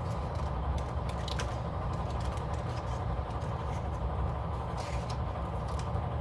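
Soft crackles and taps of sticker sheets and paper being handled on a planner page, over a steady low hum.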